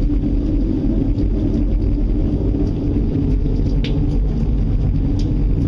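A loud, steady deep rumble with a droning hum in it: the unexplained approaching sound that the listeners fear is drawing close.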